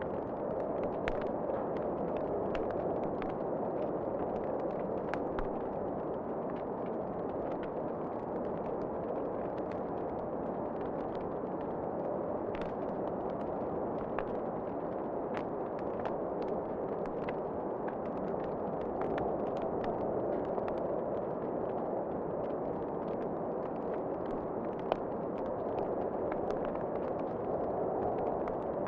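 Wood fire crackling with scattered sharp pops over a steady rushing wind, one pop louder than the rest near the end.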